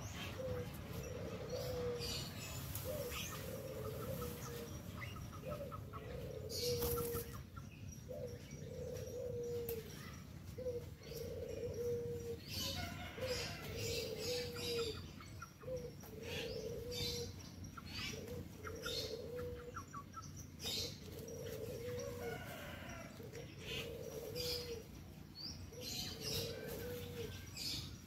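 A bird calling a short, low note over and over, about every second and a half, with some notes dipping at the end. Leaves rustle and snap now and then as they are picked by hand.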